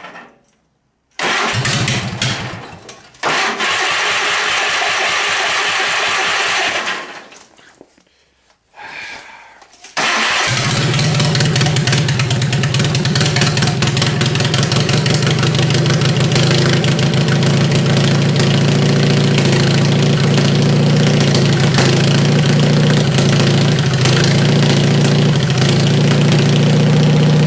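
Worn Kohler KT17 twin-cylinder garden tractor engine being cold-started with the choke worked by hand: it catches and fades out a couple of times, then about ten seconds in it starts and keeps running steadily.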